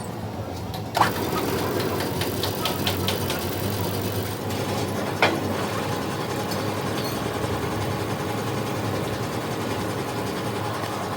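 A machine starts with a sharp click about a second in and runs steadily. A few light ticks follow, then one sharp knock about five seconds in.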